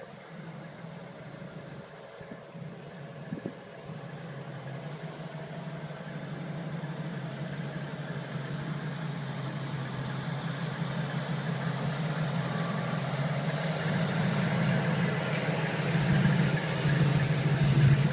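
1949 Chevrolet truck's inline-six engine running at a steady idle, growing gradually louder toward the end.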